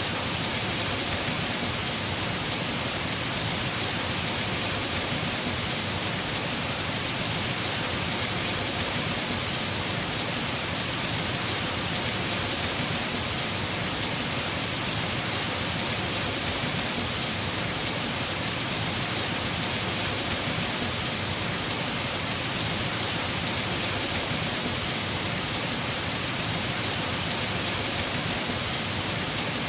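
Heavy rain falling steadily on a house roof, an even hiss without a break.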